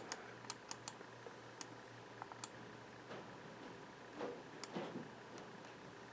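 Faint clicks from working a computer: about eight sharp clicks at irregular spacing, most of them in the first two and a half seconds, and one more a little before the five-second mark.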